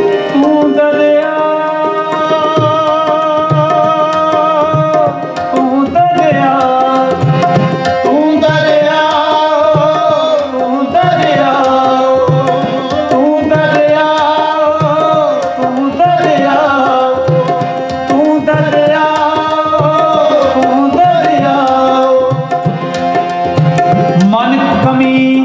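Sikh kirtan music: tabla playing a steady rhythm under a sustained harmonium melody, with sliding melodic phrases every few seconds.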